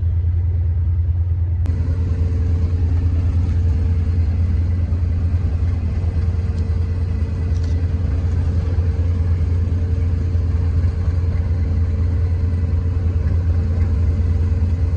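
Diesel locomotive engine idling while the train stands stopped, a deep steady rumble. About two seconds in, a steady hum joins it and runs on.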